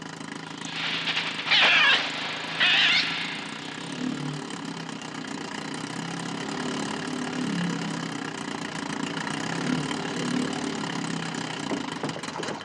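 Two harsh seagull shrieks, about one and a half and two and a half seconds in, as the gull swoops down and strikes, over the steady low hum of a small motorboat's engine.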